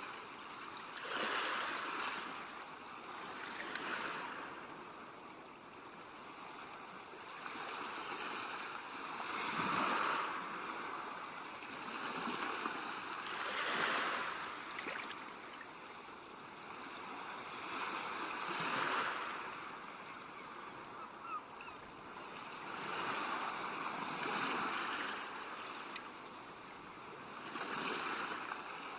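Ocean waves breaking on a shore, the surf swelling and washing back in repeated surges every few seconds.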